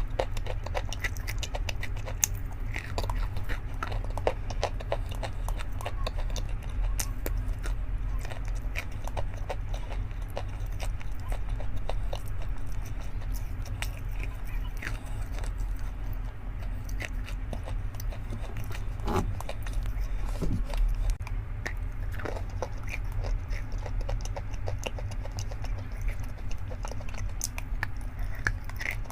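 A person chewing and crunching close to the microphone: many small, irregular crisp crunches and clicks over a steady low hum.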